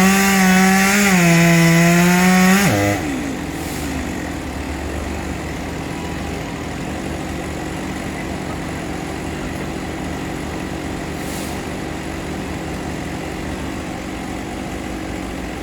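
Two-stroke chainsaw cutting through wood, its engine pitch dipping and recovering as the chain bites. About three seconds in the throttle is released and the pitch drops sharply, leaving a quieter, steady low engine running for the rest of the time.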